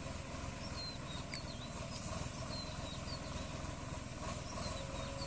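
Swaraj 744 FE tractor's diesel engine running steadily at idle, with a low, even chugging. Small birds chirp briefly several times over it.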